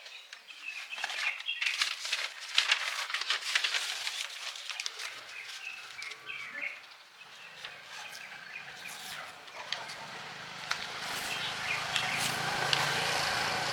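Scattered sharp clicks and knocks with short bird chirps among them. About ten seconds in, a steady low engine hum comes up and grows louder to the end.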